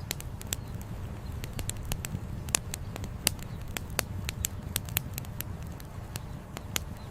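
Wood campfire crackling, with frequent sharp pops and snaps, several a second and a few louder ones, over a steady low rumble.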